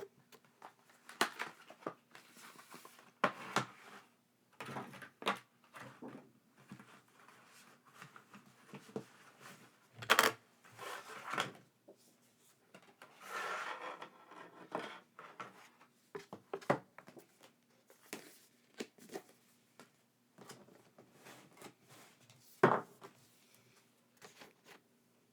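Hands handling items and packaging: irregular clicks, taps and knocks with short bursts of rustling, the sharpest knocks about ten and twenty-three seconds in.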